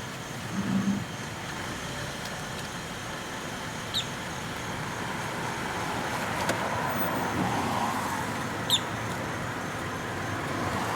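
Steady hum and road noise of a car moving slowly, with two brief high chirps, one about four seconds in and another about nine seconds in.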